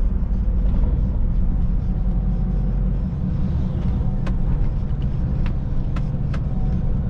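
Scania truck running on the road, heard inside the cab as a steady low drone of engine and road noise, with a few faint sharp clicks in the second half.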